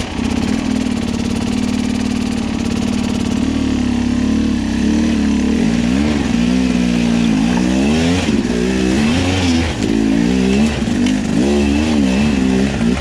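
Two-stroke enduro dirt bike engine under load, held at fairly steady revs for the first few seconds, then revving up and down again and again as the rider works the throttle.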